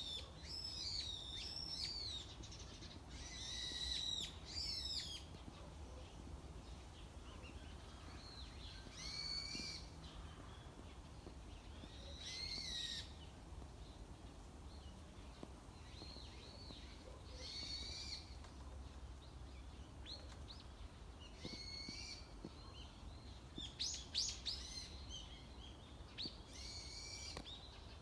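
Wild songbirds singing: short, high, warbling phrases that come every few seconds, with a dense run of song at the start and a sharper, louder phrase about 24 seconds in.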